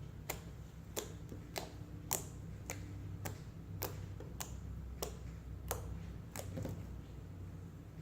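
Homemade slime being poked and squeezed by hand, giving a run of sharp clicks and pops roughly every half second or so.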